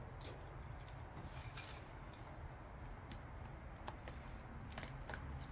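Gasket scraper scratching an old intake manifold gasket off a Chevy 350 cylinder head: short, irregular scrapes, the loudest about a second and a half in.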